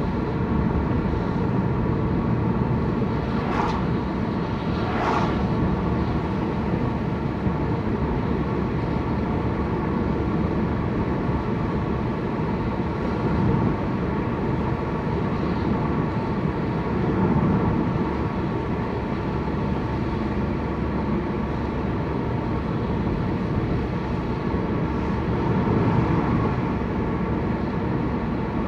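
Steady car cabin noise while driving: engine and road rumble heard from inside the car. A few seconds in come two short sharp sounds about a second and a half apart.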